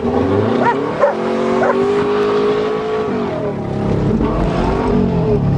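Subaru Legacy's boxer engine pulling under acceleration while driving, its note rising and holding, dropping about three seconds in, then a deeper rumble building near the end. A dog barks a few times in the first two seconds.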